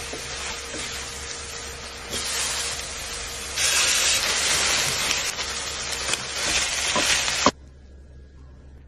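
Food sizzling as it fries on a griddle pan, with a spatula scraping and tapping the pan. The sizzle swells louder about two seconds and three and a half seconds in, then cuts off suddenly after a sharp click about seven and a half seconds in.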